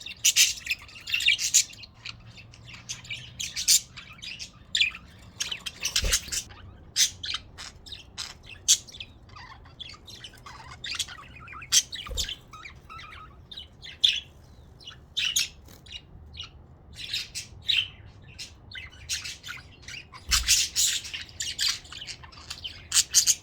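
Pet budgerigars chirping and chattering in quick, irregular runs of short high calls, with a few dull low bumps.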